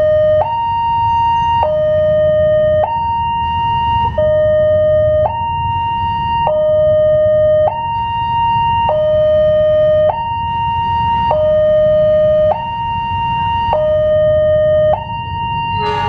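Railway level-crossing warning alarm sounding a two-tone hi-lo signal, switching between a high and a low note about every 1.2 seconds, warning of an approaching train. A steady low rumble lies underneath.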